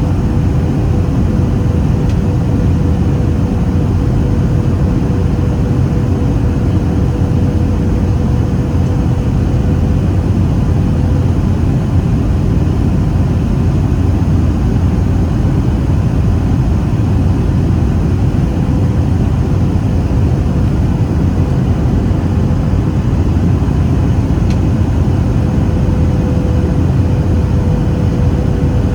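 Steady cabin noise inside a Boeing 737-800 heard from an over-wing exit-row seat: a constant low rush of its CFM56-7B engines and airflow, with a steady hum underneath.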